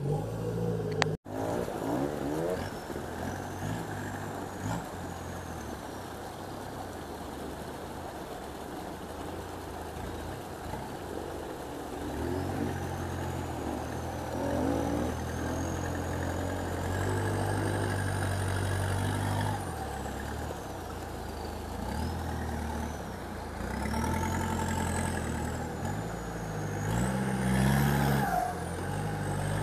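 Off-road 4x4's engine revving under load in repeated surges, rising and falling as it works to climb an obstacle. A high-pitched whine glides up and down alongside it.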